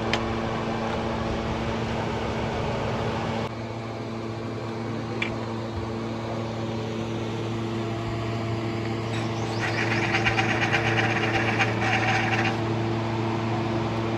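A steady mechanical hum. Sharp clicks come at the start and about five seconds in, and a burst of rapid clicking lasts about three seconds past the middle.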